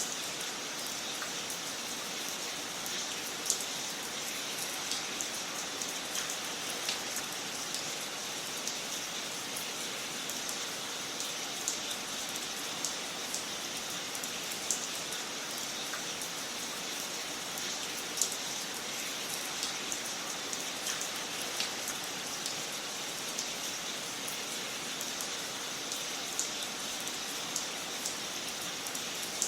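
Wood fire crackling in a fireplace: a steady soft hiss with irregular sharp pops and snaps scattered throughout.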